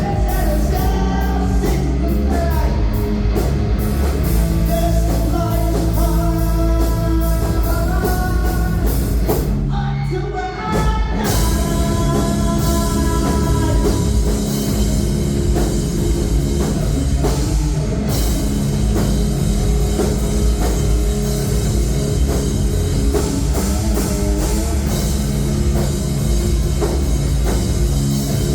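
Live rock band playing loud, heavy rock with drums and guitars. The music breaks off briefly about ten seconds in, then the full band comes back in.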